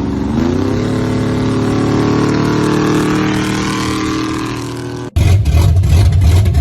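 A truck engine revs up in the first second and holds at high revs, easing off slightly. About five seconds in it cuts abruptly to a louder, deeper engine running with a crackling exhaust.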